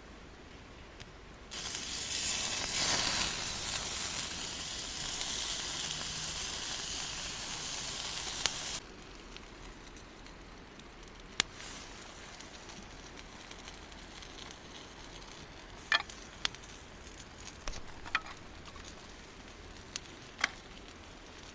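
Gyoza sizzling in a frying pan over a campfire. A loud sizzle starts suddenly about a second and a half in and cuts off suddenly around nine seconds, leaving a quieter hiss with a few sharp crackles and clicks.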